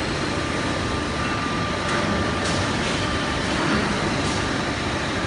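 Steady factory machinery noise from a roller conveyor line running, with a faint steady tone and a few light knocks.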